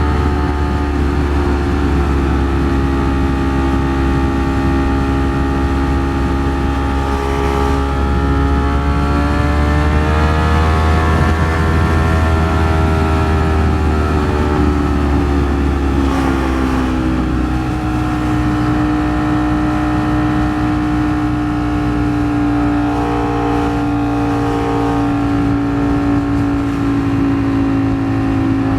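Ducati Streetfighter V4S's V4 engine running while riding, with the pitch climbing a little about eight seconds in, easing back down around sixteen seconds, then holding steady.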